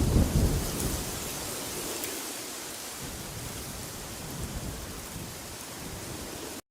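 Steady rushing wind with a deep rumbling gust in the first second. The sound drops out for an instant near the end.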